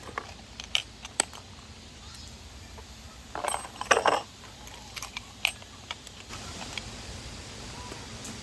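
Scattered light clicks and metallic clinks of small objects being handled, with a louder clatter about three and a half to four seconds in.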